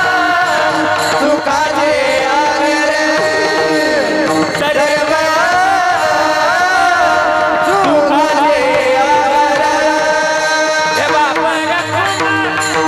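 Warkari devotional singing: a voice sings long, ornamented melodic lines over a steady held drone, with mridang drumming.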